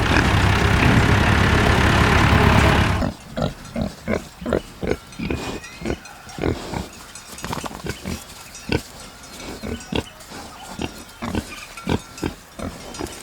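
Domestic pigs grunting: a loud, dense burst of pig noise for about three seconds, then a quieter run of short grunts.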